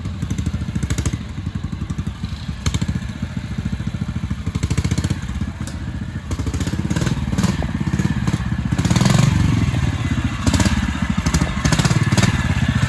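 Trials motorcycle engine running at low revs with a rapid, even pulsing beat, growing louder about nine seconds in.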